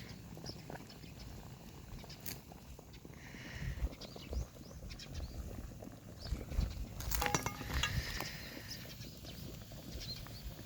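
Bonfire of dried kudzu roots and black nightshade stalks crackling with scattered sharp pops over a low rumble. About seven seconds in there is a louder clatter with a brief metallic ring.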